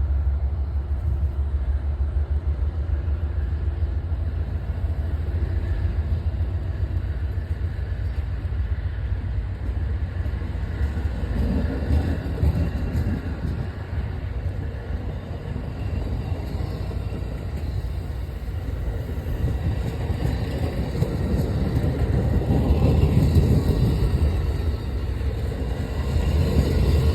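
Amtrak passenger train passing: a steady low rumble that swells about twelve seconds in and again for several seconds near the end.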